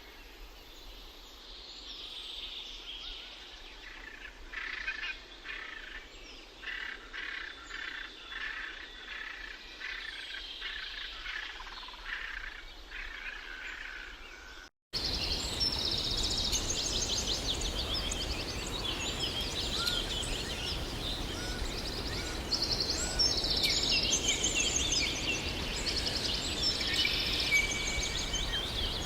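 Songbirds chirping and trilling. About halfway through, an abrupt cut leads to a louder, busier chorus of bird calls over a steady hiss.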